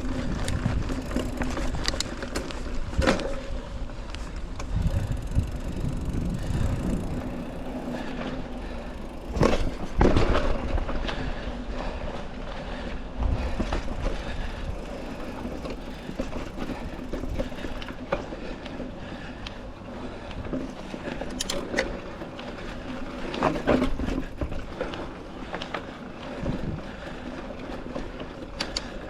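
Mountain bike rolling along a dirt trail: knobby tubeless tires humming and crunching over the ground, with the bike rattling and several sharp knocks as it jolts over bumps and roots.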